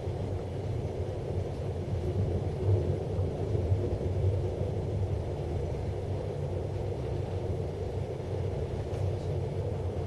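Moving passenger train heard from inside the carriage: a steady low running rumble.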